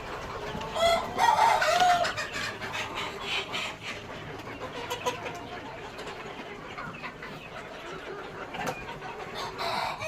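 Flock of Sonali chickens clucking, with one loud drawn-out call about a second in, then steadier, softer clucking through the rest.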